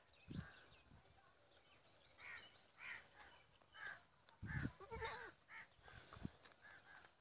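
Faint bird calls: a string of short high calls and some fine chirping, with a few dull low thumps.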